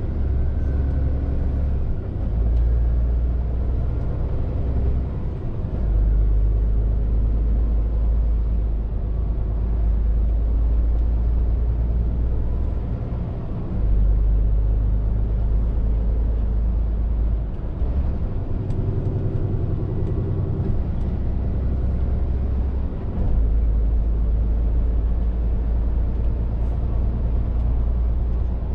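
Scania R450 lorry's six-cylinder diesel engine running on the road as a deep drone that steps up and down in pitch and level several times, with tyre and road noise underneath.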